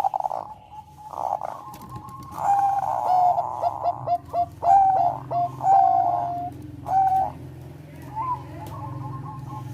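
Zebra dove (Thai 'perkutut bangkok') cooing: a run of quick, short coos that drop in pitch, followed by a few longer held coos, with fainter cooing before and after.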